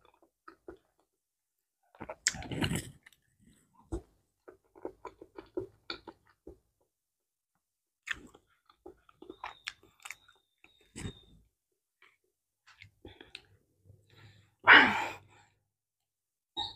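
Close-up mouth sounds of someone eating ripe bananas: soft chewing with small wet clicks, and the rustle of a banana peel being pulled back. A short, louder noisy burst comes near the end.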